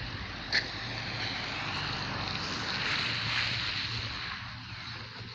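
A vehicle passing on a rain-wet street, its tyre hiss swelling to a peak about three seconds in and then fading away, over a steady low hum. A sharp click sounds about half a second in.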